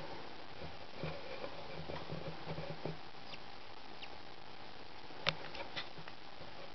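Budgie moving about in a nest box: faint scratching and rustling, with a short cluster of sharp clicks a little after five seconds in.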